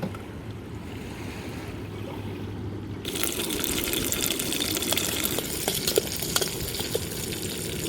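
A low steady hum for about three seconds, then a sudden hiss with crackling starts: chopped aromatics sizzling in a hot pan on a camp burner.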